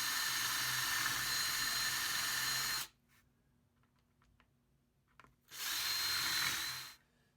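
Power drill with a 5/16-inch bit boring a hole into a pallet board, with a high whine over the cutting noise: one run of about three seconds that stops suddenly, then a second, shorter run about five and a half seconds in.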